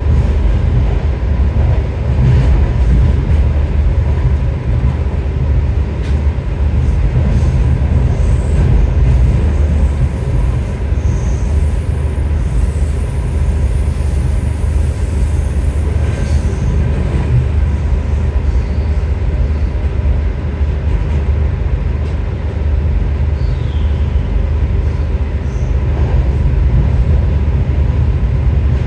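Electric intercity train running along the track, heard inside the carriage: a steady low rumble of wheels and running gear that goes on without a break.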